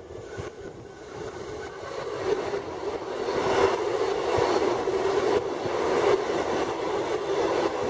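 Queensland Rail suburban electric train passing close by on the near track: a steady rush of wheels and running gear that grows louder over the first three seconds and then holds, with a few sharp wheel clicks.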